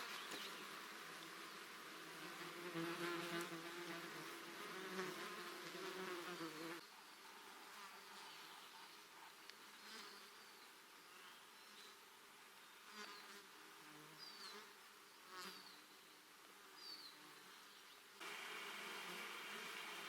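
A flying insect buzzing close to the microphone, its drone wavering in pitch. After a cut about seven seconds in, the sound is quieter, with a few short high chirps. Near the end a steady high-pitched trill comes in.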